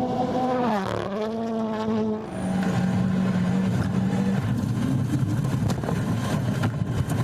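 Rally cars' engines at racing revs. The engine note dips and climbs again about a second in, then changes about two seconds in to a lower, steadier engine note with many sharp cracks and clicks over it.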